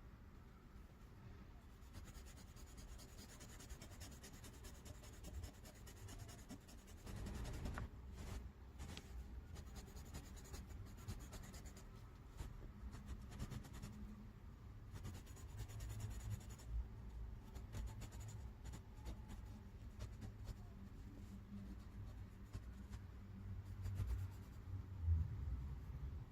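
Gel pen scratching across paper, filling in a background with continuous small strokes; a louder stretch of scratching about seven seconds in and a brief low bump near the end.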